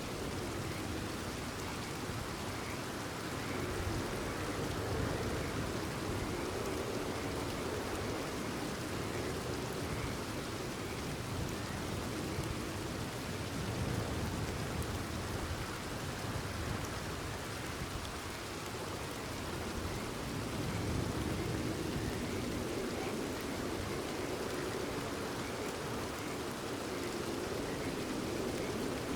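Steady, continuous rainfall, a dense hiss of drops that swells and eases slightly.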